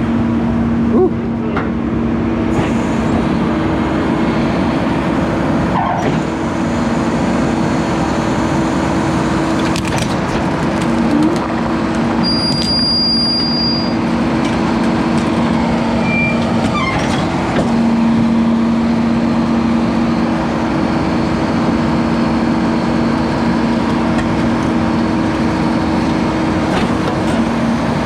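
Garbage truck's engine and hydraulic compactor running steadily while packing king-size mattresses, a loud mechanical hum with two held tones and occasional creaks and clicks.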